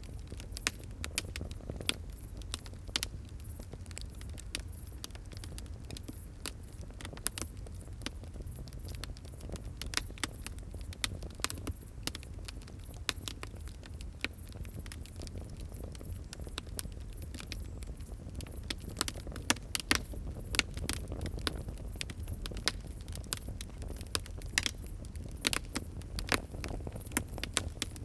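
Fire crackling: irregular sharp pops and snaps over a low steady rumble, with a cluster of louder pops about two-thirds of the way through.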